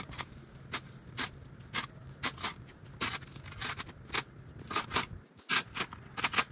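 A string of short, irregular scrapes and clicks, about one to three a second, over a faint low background hum.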